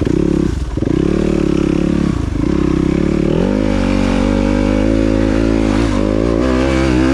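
Dirt bike engine under way, its pitch dropping briefly twice as the throttle is rolled off, then rising and holding at higher revs with small wavers.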